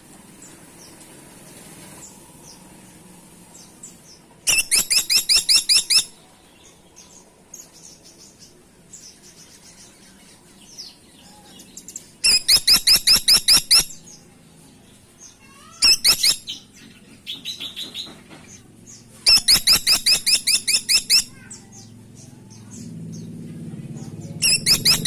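Woodpecker calling: loud, high-pitched rattles of rapid, evenly spaced sharp notes, each run lasting one to two seconds and repeated every few seconds, with softer single calls in between.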